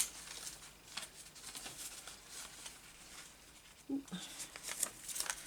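Faint rustling and light ticks of paper scraps being sorted through by hand, with a short murmur about four seconds in.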